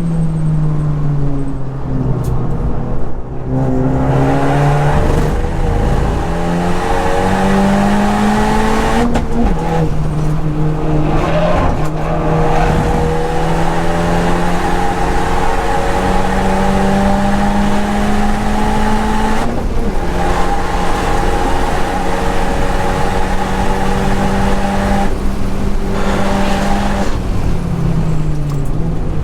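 Modified Honda Civic Type R (FK8) turbocharged 2.0-litre four-cylinder at full throttle on track, its pitch climbing and then dropping sharply at each of several gear changes, then falling away near the end as the car slows.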